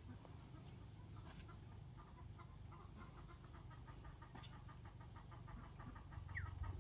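Faint bird calls: a few high gliding chirps and, in the middle, a rapid run of short repeated notes lasting about three seconds, over a low steady rumble.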